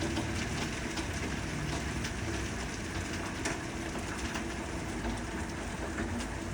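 Heavy rain mixed with small hailstones falling and hitting surfaces: a steady rush with scattered sharp taps.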